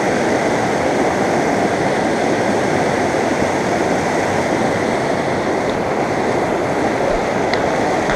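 River water rushing steadily, with a couple of faint clicks about two-thirds of the way in and near the end.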